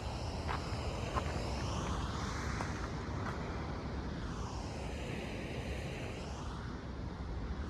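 A fixed-wing aircraft passing overhead, its whoosh swelling and sliding in pitch twice, over a steady rumble of wind and ocean surf. A few light footsteps click on the trail early on and about three seconds in.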